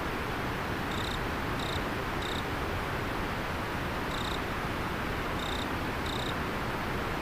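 River water flowing steadily, with an insect calling in six short, high chirps at uneven intervals.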